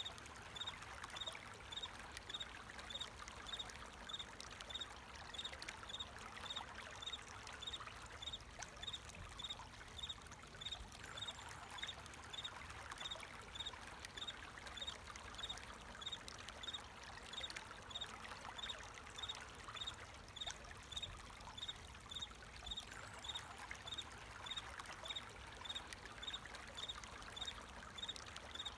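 Water flowing and trickling steadily, with a cricket chirping in an even rhythm, about two short high chirps a second.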